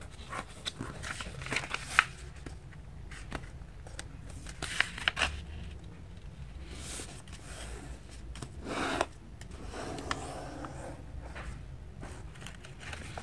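Paper being handled, folded and creased by hand: faint rustling and crinkling with a few sharp ticks.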